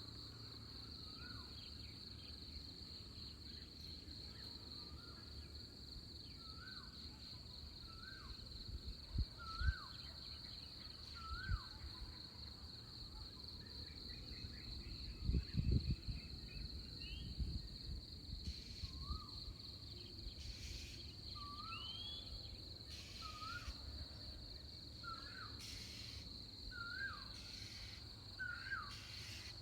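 Dawn countryside chorus: a steady high-pitched insect trill throughout, with a bird repeating a short upward-hooked call note about every second and a half, pausing for a while in the middle. A few low thumps come near the middle.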